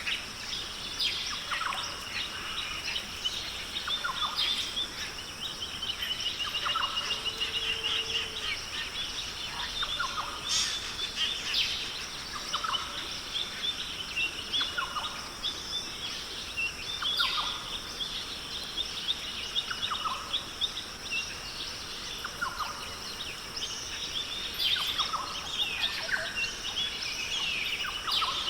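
Wild forest birds calling, short chirps and trills every second or two, over a steady high-pitched insect drone.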